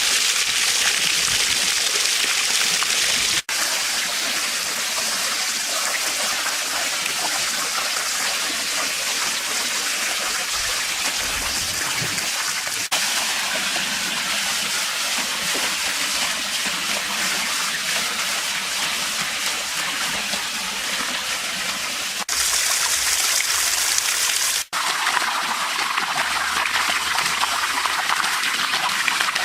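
Water falling steadily from a built waterfall into a fish pond, splashing and gushing. The sound breaks off briefly and changes character a few times.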